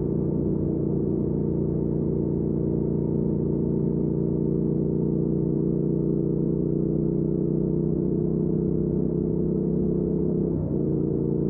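2019 Triumph Speed Twin's 1200 cc parallel-twin engine, breathing through a Weslake Shorty Pro exhaust, running steadily while cruising, with a brief wobble in its tone near the end.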